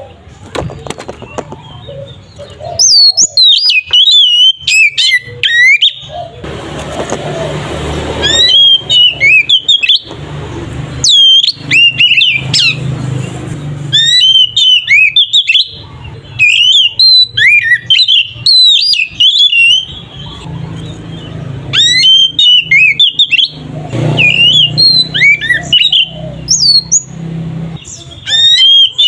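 Oriental magpie-robin (kacer) singing loudly in full, fighting-mood song: rapid phrases of sweeping whistles and chirps, in bursts every second or two with short pauses between.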